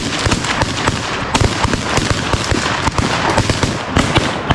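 Several shotguns firing rapid, overlapping shots at geese, many blasts a second with no gap between them.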